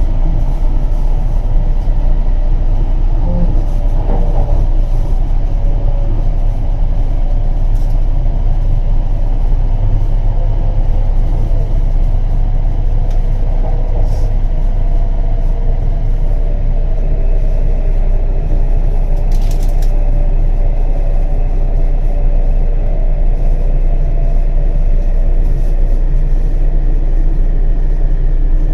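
W7 series Shinkansen running at speed, heard from inside the passenger cabin as a loud, steady, deep rumble.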